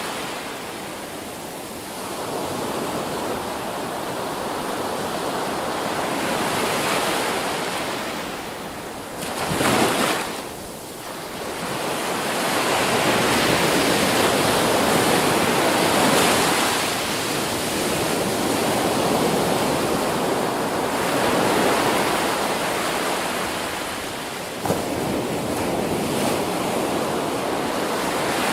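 Ocean surf: waves breaking and washing in, a continuous rushing that swells and eases in surges, with a short louder surge about ten seconds in.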